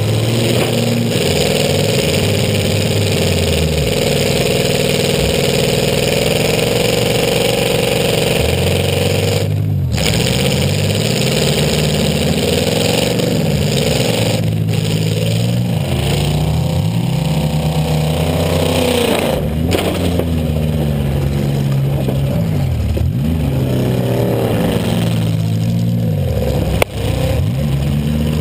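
A 2000 Buick LeSabre's 3.8-litre V6, heard from inside the car, revving up and dropping back over and over under hard throttle. There is one sharp knock near the end.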